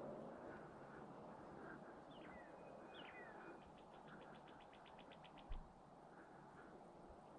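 Faint wild songbird calls in quiet brushland: a couple of quick chirps about two seconds in, then a fast, even trill of about ten notes a second. A single brief low thump comes a little over five seconds in.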